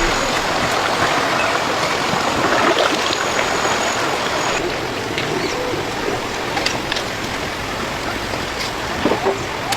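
Steady rushing noise of running water, with a few faint clicks near the end.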